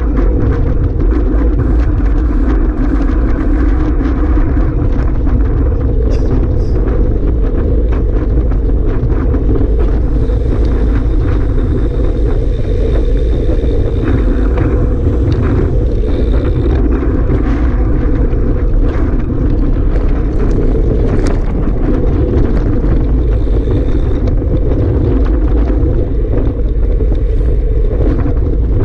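Strong wind rumbling on the microphone: a loud, steady low roar with many small crackles.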